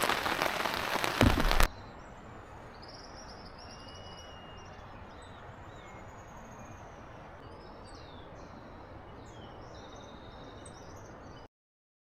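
Heavy rain pattering on a surface, loud, with a heavier thump just before it cuts off abruptly about a second and a half in. It gives way to a quiet steady hiss with birds chirping, which stops dead near the end.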